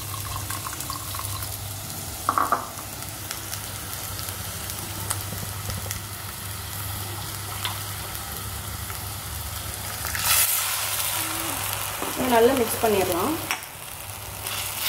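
Onions, green chillies and masala paste sizzling in hot coconut oil in a clay pot while being stirred. About ten seconds in, a louder rushing hiss as liquid from the mixer jar is poured into the hot pot.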